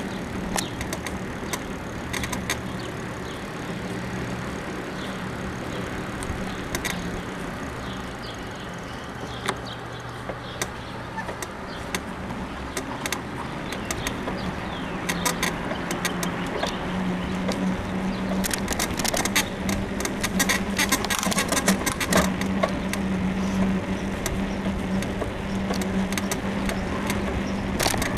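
Bicycle being ridden, with steady riding noise and many sharp creaks and clicks from the suspension frame, thickest about two-thirds of the way through; the rider thinks a suspension bushing is worn. A low motor-vehicle hum underlies the first half.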